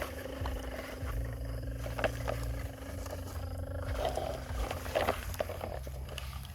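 Dump truck engine running with a low rumble and a steady hum, with a few sharp clicks or knocks.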